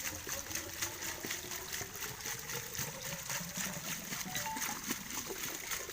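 Water pouring and splashing from the outlet of a diesel-engine irrigation pump, with a steady pulsing beat of about four to five a second.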